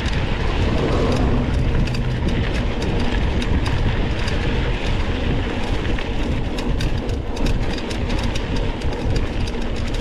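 Mountain bike ridden over rough trail, heard from an onboard camera: a steady rumble of tyres and wind with frequent irregular clicks and rattles from the bike on the rough ground.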